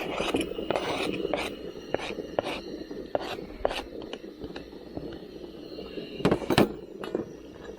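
Kitchen knife cutting onion on a cutting board: irregular knocks about every half second, with a quick cluster of louder chops near the end.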